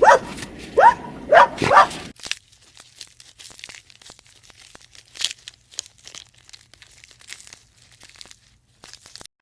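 A dog barking, four loud short barks in the first two seconds. Then scattered crackling and rustling clicks for the rest.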